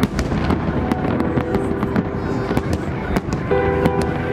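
Festive fireworks salute: a continuous run of sharp bangs and crackles from bursting shells. About three and a half seconds in, a steady tone with several pitches joins in.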